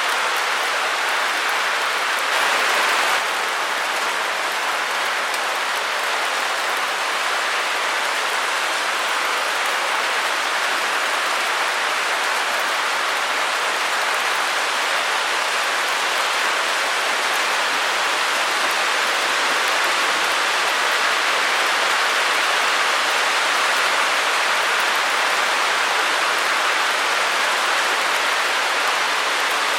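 Steady white-noise hiss, even and without rhythm or pattern. Its tone and loudness shift slightly about three seconds in.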